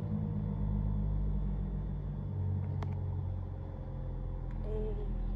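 Steady low hum of a car engine idling, with a single faint click about three seconds in.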